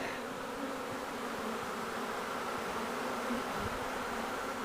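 Steady buzzing of a honey bee swarm, many bees flying at once.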